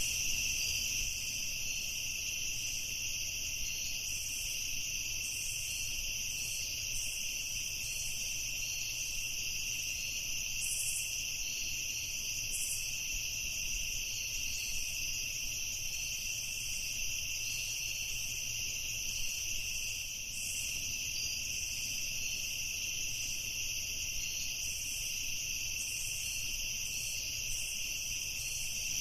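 A dense chorus of night insects, mostly crickets, chirring steadily.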